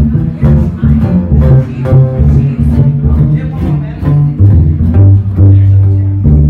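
Live bluegrass band playing an instrumental passage, with plucked upright bass notes prominent in a steady rhythm under lighter string picking.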